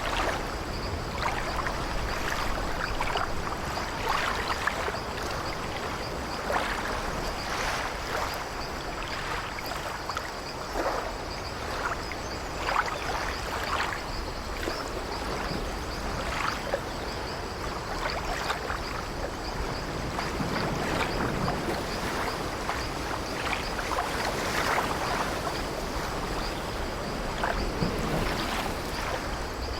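Sea water lapping and splashing against a wooden ship's hull: a steady wash with irregular small splashes.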